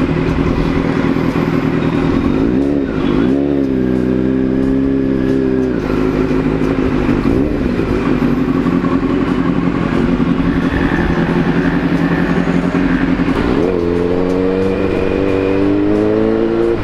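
Kawasaki Z900's inline-four engine through an Akrapovic full-system exhaust, riding and revving. The pitch climbs sharply about three seconds in, holds, then drops, and climbs steadily again near the end.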